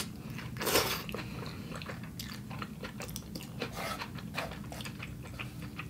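Close-miked mouth sounds of a person chewing food: soft irregular wet clicks and smacks, with a short louder noisy burst about a second in.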